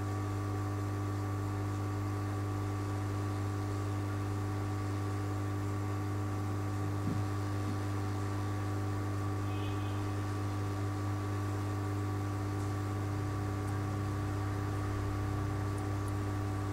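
A steady, unchanging hum with a faint hiss underneath.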